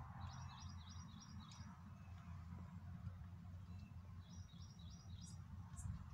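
A small bird calling faintly: two quick runs of about five high chirps each, one near the start and one about four seconds in, over a low steady rumble.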